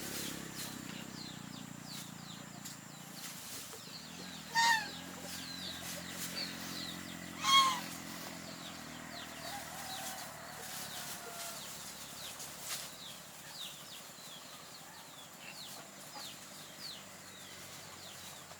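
Chickens clucking, with two short, loud squawks about four and a half and seven and a half seconds in. Small birds chirp throughout.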